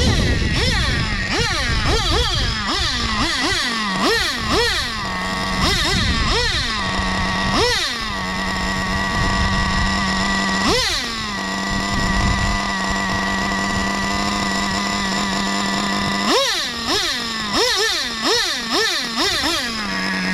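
Traxxas Slayer Pro 3.3 two-stroke nitro engine idling steadily and blipped through a string of quick revs. There is a flurry of revs at first, a steady idle through the middle and another flurry near the end. The owner takes these revs as confirming a stripped gear in the drivetrain.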